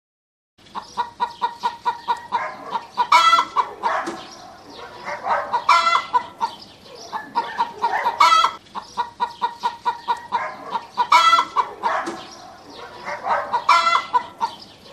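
Chickens clucking in quick runs of short notes, with a louder, higher squawk about every two and a half to three seconds.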